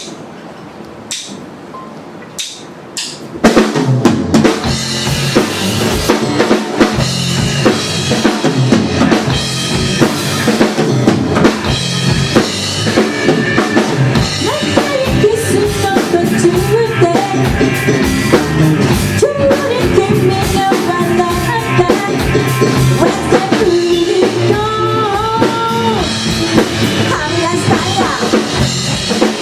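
Rock band playing live, launching into a song. A few sharp clicks first, then about three and a half seconds in the full band comes in loud with drum kit, bass and guitars.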